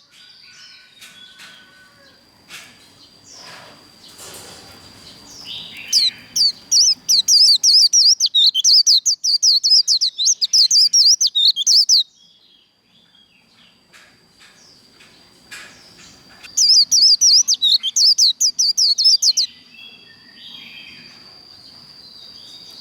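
White-eye singing its fast, high twittering 'líu' song in two long bursts, one about six seconds and one about three seconds long, with softer chirps and clicks between them.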